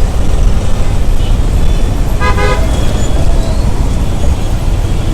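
Road traffic heard from a moving motorcycle: a steady low rumble, with one short vehicle horn toot about two seconds in.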